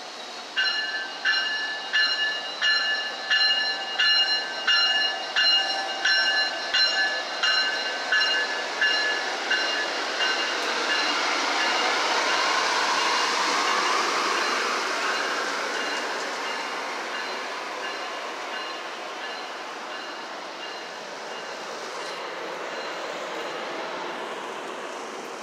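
A train bell rings in steady strokes, a little under two a second. The strokes are loud at first and fade over the following seconds. Meanwhile a train passes, its rushing wheel and rail noise swelling to a peak about halfway through and then slowly dying away.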